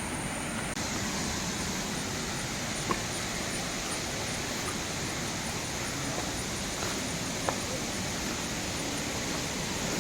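Steady, even rush of a tall waterfall's falling water, with two faint ticks about three and seven and a half seconds in.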